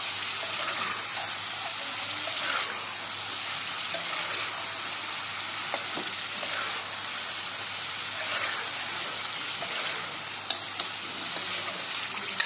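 Chicken pieces frying and sizzling in oily tomato-onion masala in a metal pot, stirred with a metal spoon that scrapes the pot every second or two. Two sharp clicks come close together about ten and a half seconds in.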